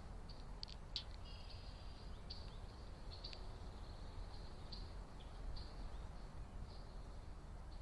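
Small birds chirping: short, high chirps about once a second, over a steady low background rumble.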